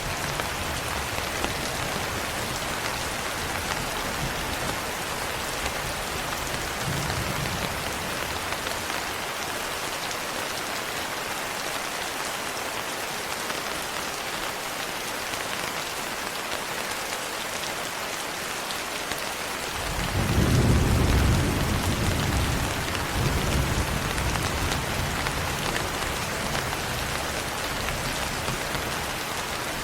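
Steady rain falling, with a roll of thunder breaking in suddenly about two-thirds of the way through and rumbling on to the end; fainter low rumbles come earlier.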